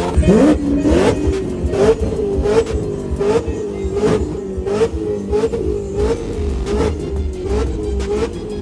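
A car engine revs up sharply in the first half second and is held at high revs, its pitch dipping and climbing back about every 0.7 s as the throttle is worked.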